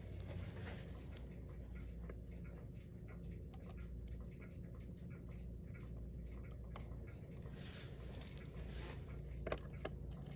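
Faint, scattered small clicks and light taps of watchmaker's tools and small parts handled while taking apart a Seiko 5 watch, over a low steady hum. Two sharper clicks come near the end.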